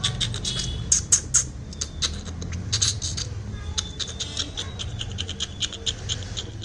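Rapid irregular scratching and clicking, with a few short high cheeps from a young fledgling bird.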